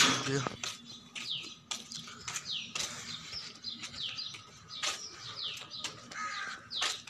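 Small birds chirping over and over: short high notes, each sliding down in pitch, about two a second. A brief loud sound comes right at the start.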